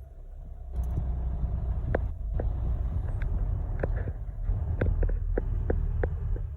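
Motor vehicle engine running with a steady low rumble, with a scatter of short, irregular light clicks and knocks over it.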